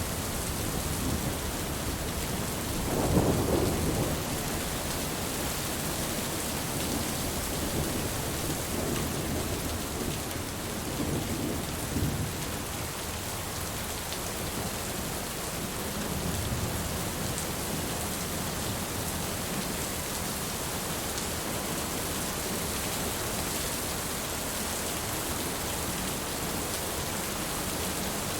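Steady rain with rolls of thunder: a low rumble swells about three seconds in, and a fainter one comes near the middle.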